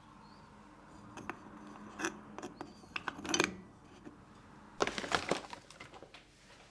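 Small hard decor objects being handled and set down on a surface: a handful of light clinks and knocks, with a quick cluster of them about five seconds in.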